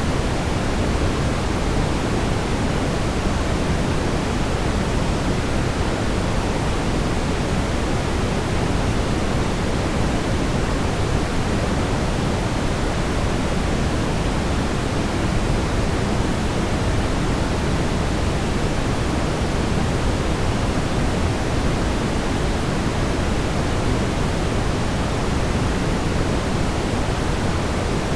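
Steady brown noise: an even, constant rumbling hiss, strongest in the low end and falling off toward the highs.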